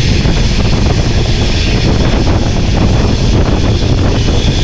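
Steady rushing noise of an express train running at speed, heard from an open coach door, with wind buffeting the microphone.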